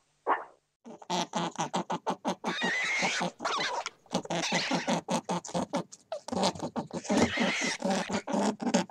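An animal calling in a fast run of short, pitched pulses, several a second, beginning about a second in, after one brief call at the very start.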